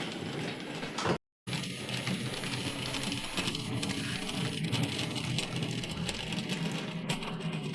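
Model train running on a layout: a small electric motor hums steadily while the wheels click over the track, with the sound cutting out briefly about a second in.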